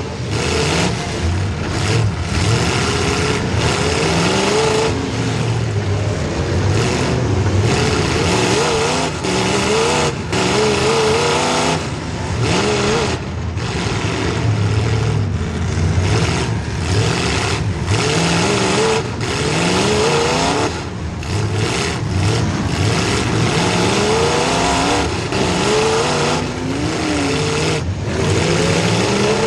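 Demolition derby cars' V8 engines, the nearest a small-block Chevy, revving hard and dropping back again and again, with several engine notes overlapping.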